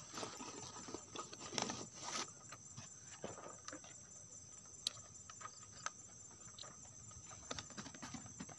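Insects, likely crickets, trill steadily outdoors, with scattered soft taps and rustles.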